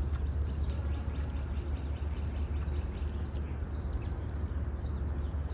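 Small birds chirping faintly a few times, over a steady low rumble.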